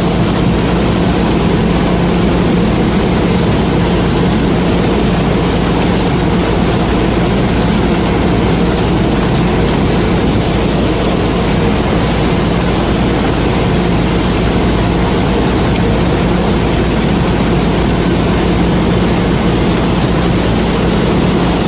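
Combine harvester running steadily while harvesting corn: a loud, unbroken engine drone with a constant low hum and the noise of the machinery.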